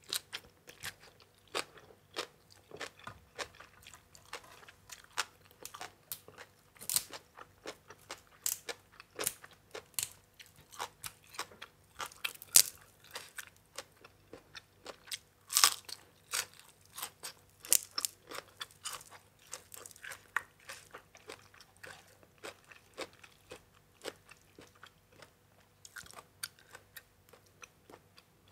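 Close-up mouth sounds of a person eating spicy green papaya salad with crisp raw vegetables: chewing with sharp, uneven crunches, about two a second, a few of them louder.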